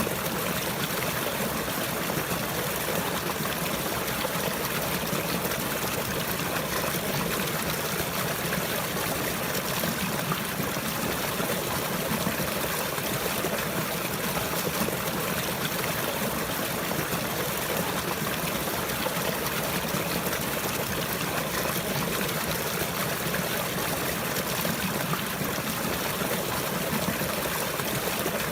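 Running water trickling and flowing steadily.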